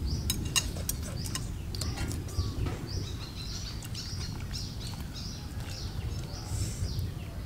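Small birds chirping over and over, with short falling calls, above a steady low background rumble. A few light clinks of utensils on dishes come in the first second or so.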